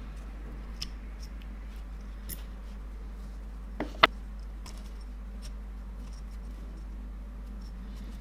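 A few faint clicks and one sharp double click about four seconds in, as of small hard parts being handled or set down, over a steady low hum.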